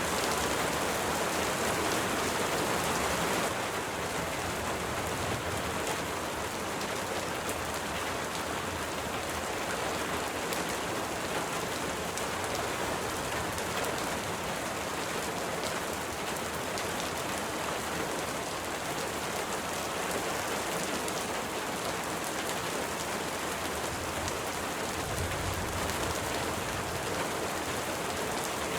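Steady rain falling in a dense, even patter, a little softer after about three seconds. A brief low rumble comes near the end.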